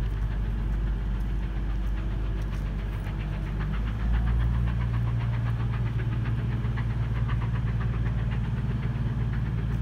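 Departing train heard as a low, steady engine-like rumble, growing fuller about four seconds in, with rapid faint beats above it.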